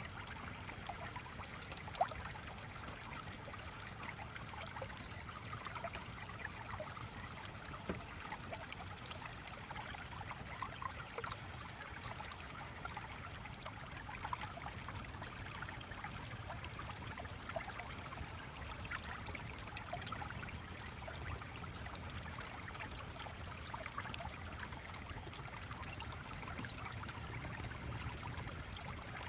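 A stream flowing and trickling steadily, with small scattered ticks over it and a sharper tick about two seconds in.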